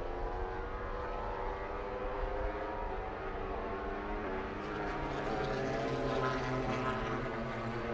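MotoGP racing motorcycle engines running at high revs, their pitch gliding up and down, a little louder from about five seconds in.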